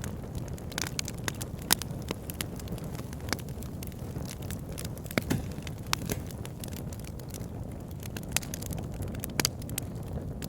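Campfire burning: a steady low rumble of flames with irregular sharp crackles and pops of burning wood, a few louder pops scattered through.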